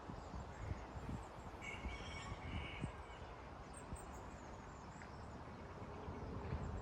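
Faint outdoor ambience with a low rumble on the microphone, and a short bird call about two seconds in.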